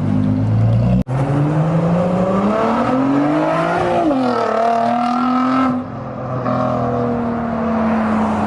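Car engine accelerating: its pitch climbs for about three seconds, drops sharply at a gear change, then holds steady as the car cruises.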